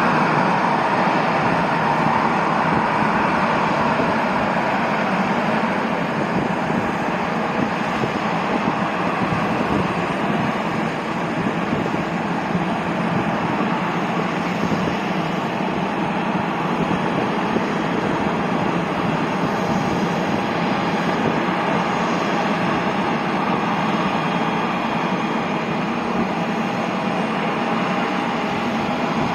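A jet airliner's engines running at the airport: a steady rushing noise that eases slightly over the first ten seconds or so.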